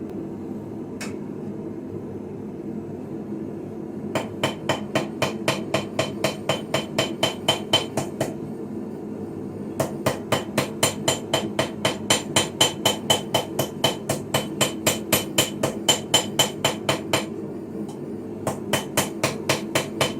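Hand hammer striking hot steel on a small Viking-style anvil while forging a sickle blade: one lone blow, then three quick runs of ringing blows at about four a second, with short pauses between them. A steady low hum sits underneath.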